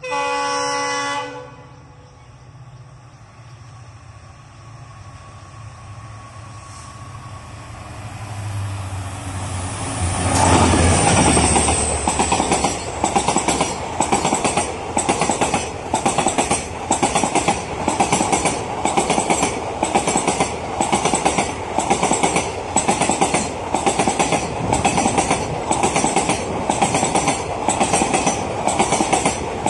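A WDP-4D diesel locomotive sounds a short horn blast, then rumbles closer and passes about ten seconds in, its pitch falling as it goes by. The passenger coaches follow at speed, their wheels clattering over the rail joints in an even rhythm of about two beats a second.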